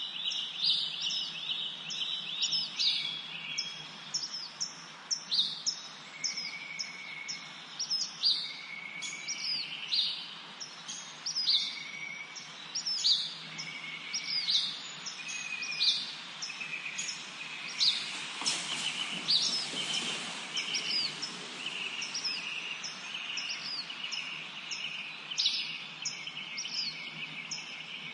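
Several songbirds singing and chirping together in a spring woodland chorus: many short, high, quick chirps repeated throughout over lower overlapping trills and short whistled notes. A brief rush of noise rises and fades about two-thirds of the way through.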